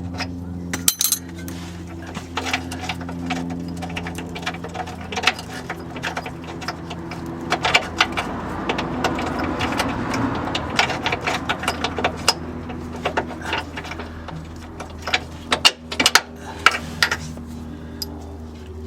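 Hand tools at work on the car's front suspension: irregular metallic clicks and taps, in quick clusters near the middle and again near the end, over a steady low hum.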